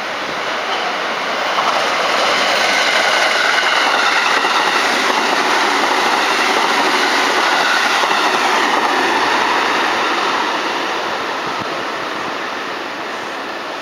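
Electric train passing on the line, its running noise swelling, holding for several seconds and then fading away, with a faint whine through it.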